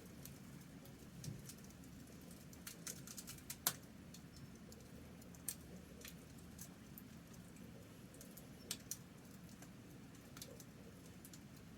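Campfire crackling faintly: scattered sharp pops at irregular intervals, a few louder than the rest.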